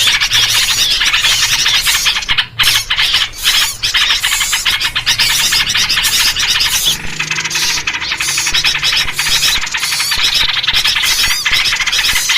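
Dense, continuous, high-pitched chatter of many small birds calling at once, yellow-vented bulbul (trucuk) calls among them: an agitated-bird lure recording (masteran) used to draw in wild birds. The chatter thins briefly a few times between about two and four seconds in.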